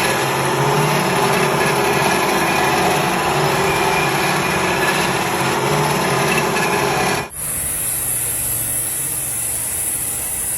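A power tool or machine tool running steadily. It cuts off abruptly about seven seconds in and gives way to a quieter running sound with a high hiss.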